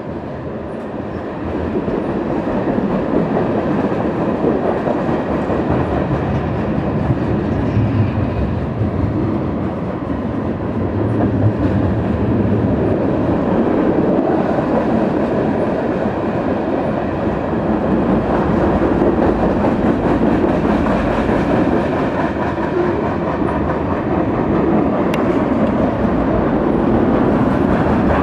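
Freight cars of a long mixed freight train (tank cars and flatcars) rolling past on the rails: a steady wheel-and-rail rumble that grows louder over the first few seconds, then holds.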